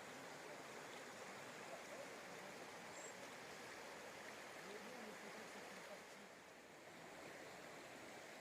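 Faint, steady rushing noise outdoors, with a faint voice heard briefly about five seconds in.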